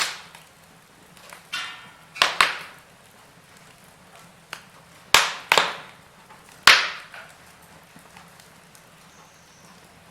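Wood fire burning in a fireplace, crackling with sharp pops every second or so, some in quick pairs, and quieter in the last few seconds.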